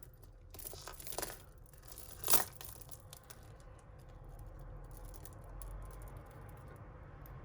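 Crinkling and rustling of thin plastic packaging being handled, with a sharp crackle about two seconds in, as matching jewellery pieces are bagged together.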